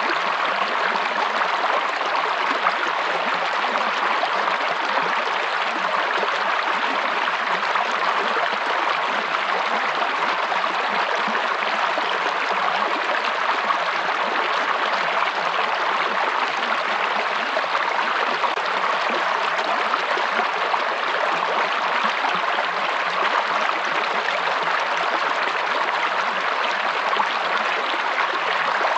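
Stream water flowing in a steady, even rush, with no breaks or changes.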